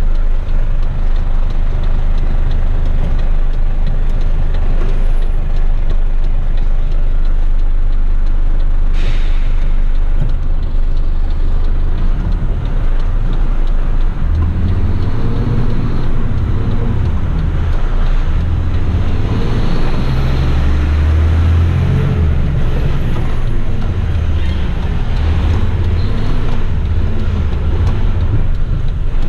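Heavy rigid truck's diesel engine running, with a short hiss of air from the air brakes about nine seconds in. From about twelve seconds on the truck pulls away, the engine note rising and falling as it works up through the gears.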